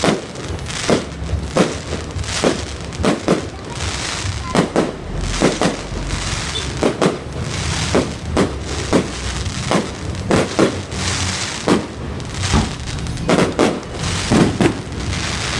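Aerial fireworks going off in a rapid, irregular series of sharp bangs, about two a second.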